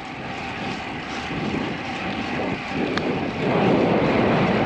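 Wind and road noise from riding a bicycle: a steady rushing that grows louder about three and a half seconds in.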